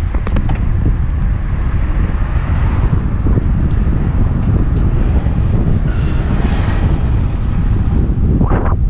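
Wind buffeting a helmet-mounted GoPro's microphone while cycling, a loud steady low rumble with a few faint ticks.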